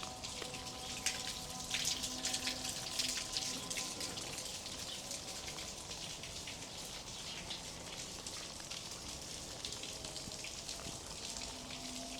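Rain falling, many small drops ticking on hard surfaces, thickest in the first few seconds, then a steady fall. A faint steady hum of tones lies underneath.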